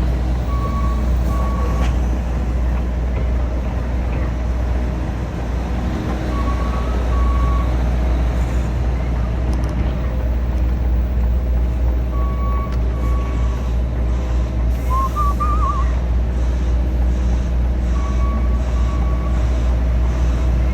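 HGV truck's diesel engine idling with a steady low rumble. Short electronic beeps in pairs sound about every six seconds.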